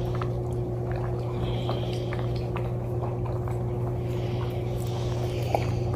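Steady low electrical hum of a running household appliance, with a light hiss and a few faint clicks and taps.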